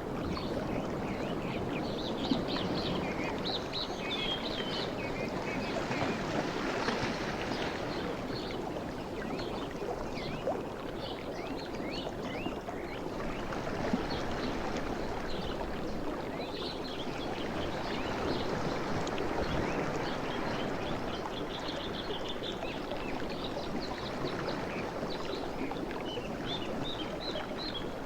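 Sea waves washing and lapping steadily, rising and falling gently, with short high chirps and ticks scattered throughout.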